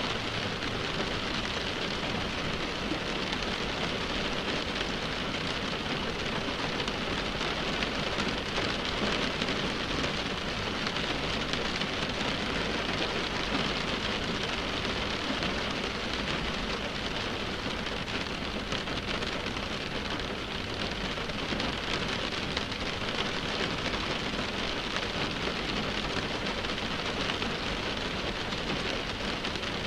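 Steady rain pattering on a car windshield, a dense, even hiss of drops.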